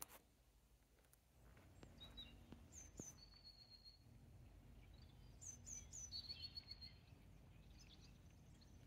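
Faint birdsong over a quiet outdoor hush: short high chirps that drop in pitch, in twos and threes, with quick trills, about three seconds in and again from about five and a half seconds.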